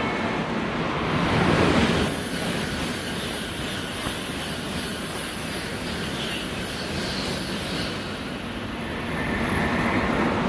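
700 series Shinkansen train running past: a broad rushing noise with a very high hiss that swells about two seconds in and eases off near the end.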